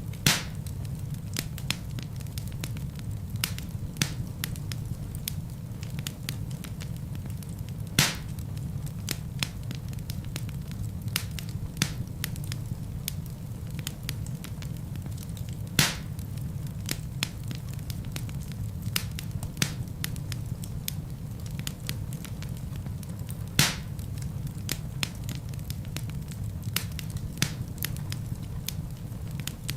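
Wood fire burning in a fireplace: a steady low rumble of flame under frequent small crackles, with a louder pop about every eight seconds.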